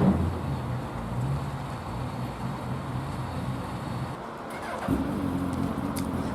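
Car engines running in street traffic: a low engine hum that drops away about four seconds in, followed about a second later by a different, steadier engine hum.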